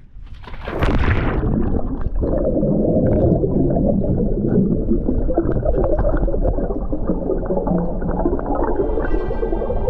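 A splash as a person jumps into the sea, then muffled underwater bubbling and rumbling heard from below the surface.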